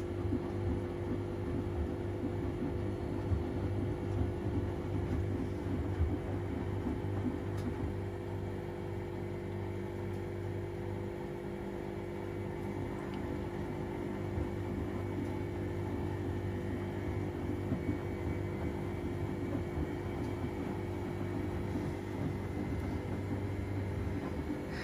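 Washing machine running through a wash cycle, its motor giving a steady mechanical hum. The low hum eases briefly a little before the middle, then resumes.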